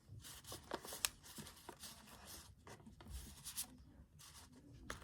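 Faint rustling and a few light clicks of trading cards being handled and shuffled through by hand, with two sharper clicks, about a second in and near the end.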